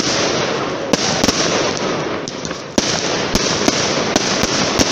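Fireworks going off: a dense crackling shower of small pops with sharper, louder cracks among them. A fresh burst of crackle starts suddenly just before three seconds in.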